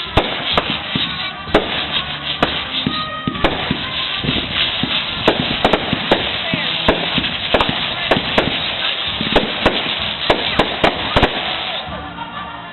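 Fireworks display: repeated sharp bangs of bursting shells, thickening about three and a half seconds in into a dense, continuous crackling barrage that dies away near the end.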